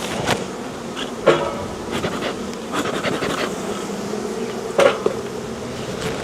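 Honey bees buzzing steadily around an open beehive, with a few short knocks, the clearest about a second in and near five seconds.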